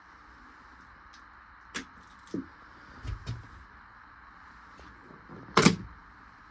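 A few scattered knocks and clanks over a steady hiss: light knocks about two seconds in, duller thuds a second later, and one loud sharp clank near the end.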